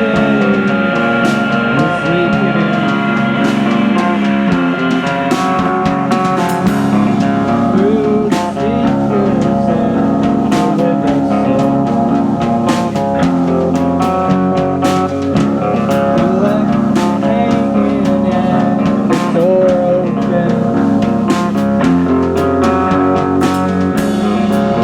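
Live rock band playing an instrumental passage: electric guitars over a drum kit's steady beat.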